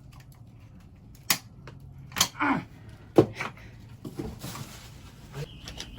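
Plastic motion-sensor housing being handled: three sharp clicks and knocks about a second apart, some with a short scrape, as its cover is slid up to get at the battery.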